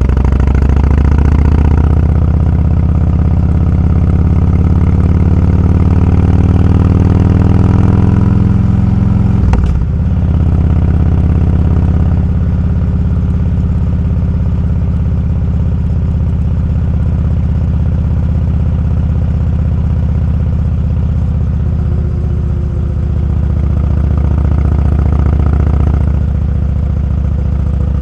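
Motorcycle engine running under way, its pitch rising slowly over the first nine seconds as it accelerates, with a brief dip about ten seconds in, then holding a steady note.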